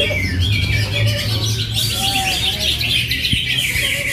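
Several green leafbirds (cucak hijau) singing at once in a songbird contest, a dense tangle of rapid chirps and trills. A low steady hum underlies the first second or so.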